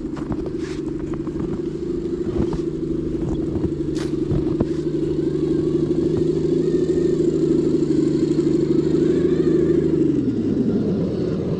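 Electric motor and geartrain of an RC scale crawler truck whining at a steady pitch, then winding down as the truck slows about ten seconds in, with scattered clicks and clatter from the wheels on the ground.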